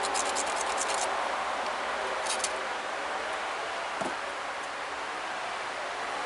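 Chert flake point being ground on a sandstone abrader: a quick run of scratching strokes in the first second and another short run about two and a half seconds in, over a steady background hiss.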